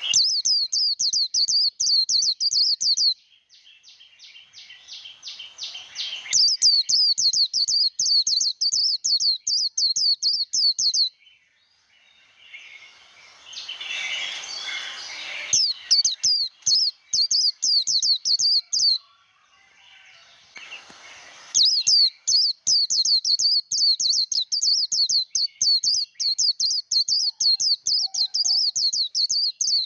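White-eye (vành khuyên) singing its rapid, high twittering "líu" trill in four long bouts separated by short pauses, with fainter chatter between the first bouts.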